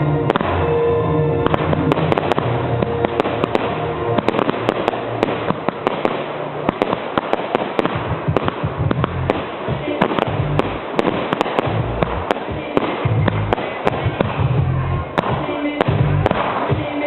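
Aerial display fireworks bursting and crackling in quick, irregular succession over loud music with a heavy bass.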